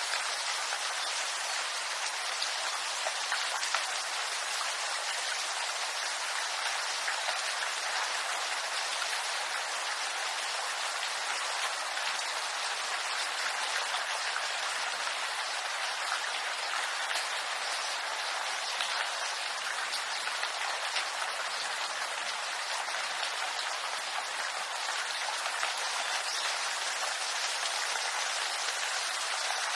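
Steady rain falling on a bamboo grove: an even hiss of many small drops striking the leaves, with no change in strength.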